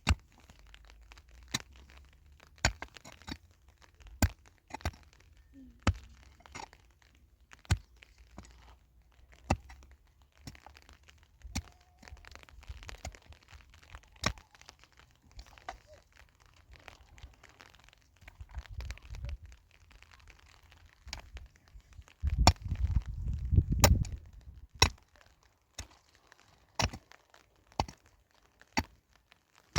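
Irregular sharp knocks and cracks, one every second or two, with a low rumble lasting about two seconds some two-thirds of the way through.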